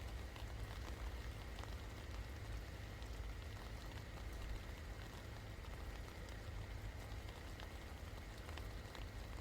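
Steady rain falling, with scattered individual drops ticking over a constant hiss and a steady low rumble underneath.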